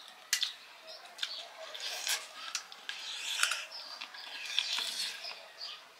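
Close, wet mouth sounds of a man eating sticky millet dhido by hand: irregular chewing, lip smacks and sticky clicks.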